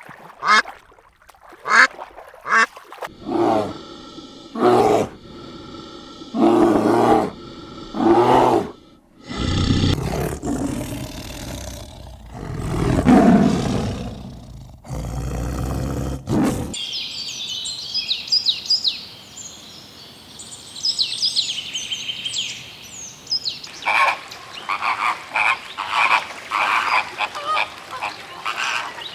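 Farm animals calling in a run of spliced clips: first repeated short pitched calls, then a loud noisy stretch in the middle, then a rapid chatter of many short high calls from a group of animals.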